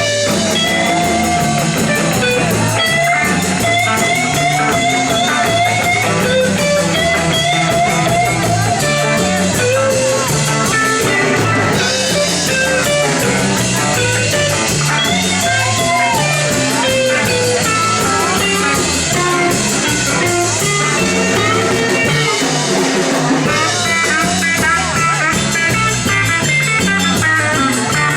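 Live rock and roll band playing an instrumental break with no vocals: a lead guitar line with bent notes over a walking bass and drum kit.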